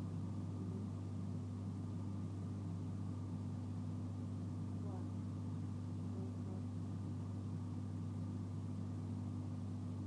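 Steady low hum heard inside a passenger train carriage while the train stands or creeps slowly, with faint voices in the background.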